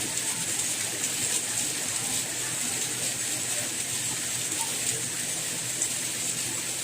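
Rain falling steadily: an even, unbroken hiss, brightest in the high treble.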